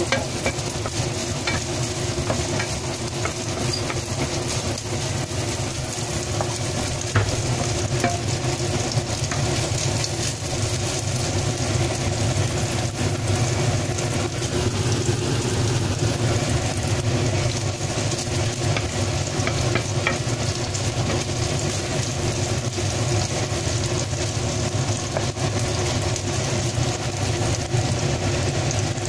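Chopped black chicken sizzling in oil in a frying pan, with a wooden spatula stirring and scraping it now and then.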